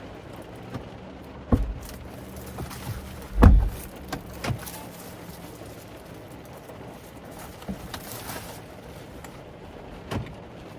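Belongings being handled and set down inside a car: a few knocks and thumps, the loudest about three and a half seconds in, over a low steady hum.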